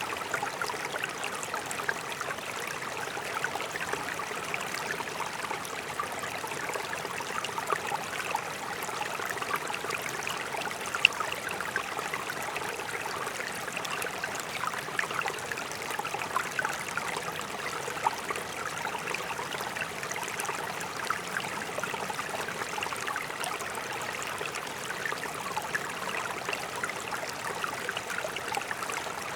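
Mountain stream running steadily: an even rush of water dotted with many small splashes and gurgles.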